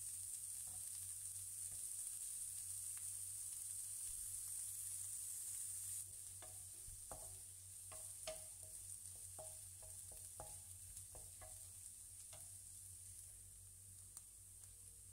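Diced carrots and crab balls sizzling faintly in a ceramic-coated frying pan. From about six seconds in, the sizzle is a little quieter and a wooden spatula knocks and scrapes against the pan in a quick run of taps while stirring.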